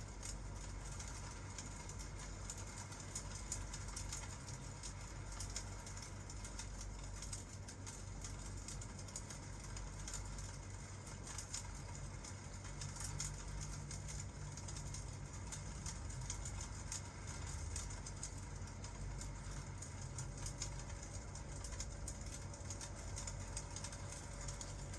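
Fireplace crackling, with many small irregular pops, over a steady hiss of rain and a low, constant rumble.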